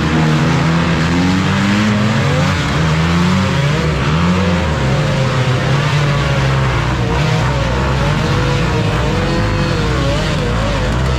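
Several motocross bike engines revving up and easing off, their pitches overlapping and rising and falling over one another.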